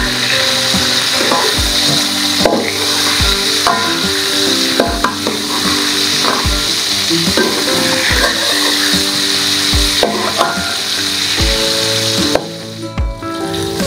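Whole shrimp frying in hot oil in a wok, sizzling steadily while a metal spatula stirs and turns them; the sizzle drops out briefly near the end. Background music with held notes and a soft beat plays underneath.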